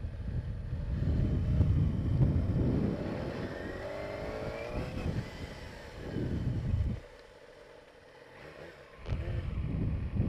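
2007 Yamaha YZF-R6 inline-four sport bike engine accelerating under a low rumble, its pitch rising for a couple of seconds about three and a half seconds in. It then drops away and goes quiet for about two seconds near seven seconds in before the rumble comes back.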